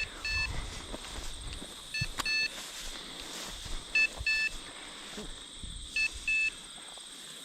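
Electronic beeper collar on a bird dog sounding a double beep, a short one then a longer one, about every two seconds: the rapid locator beep that signals the dog is on point over a bird. Low rustling underneath.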